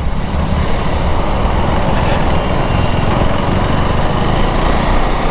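KTM Duke 390 gen 3 single-cylinder engine running steadily as the bike is ridden on the throttle, with road and wind noise.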